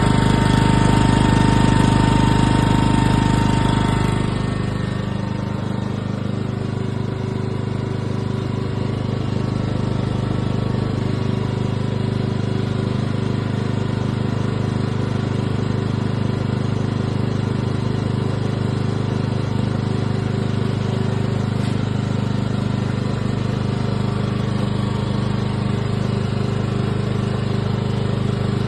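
Ryobi petrol inverter generator running steadily. It is louder for about the first four seconds, then settles to a quieter, even running for the rest.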